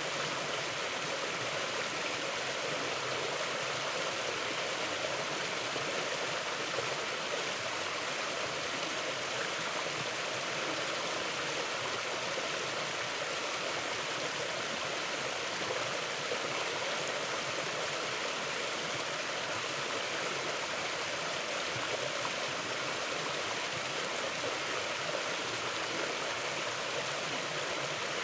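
Mountain river flowing steadily over rocks: an even, unbroken rush of water.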